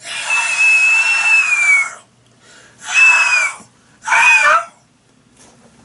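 A person's voice imitating a hawk's screech: three high screeches, the first about two seconds long and falling in pitch at its end, then two short ones.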